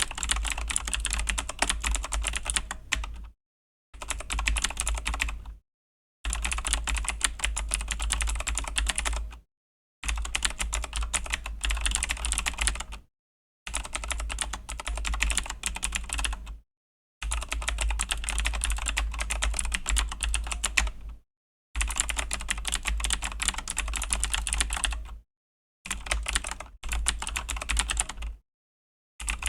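Fast typing on a Razer BlackWidow V3 mechanical keyboard with clicky Razer Green switches: dense runs of key clicks a few seconds long, broken by brief silent pauses.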